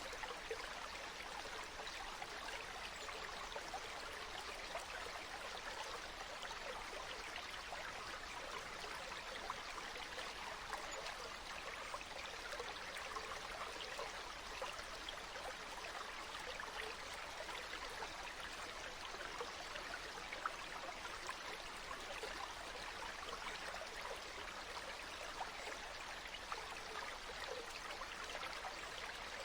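Flowing stream water: a steady, even babble of many small trickles and splashes.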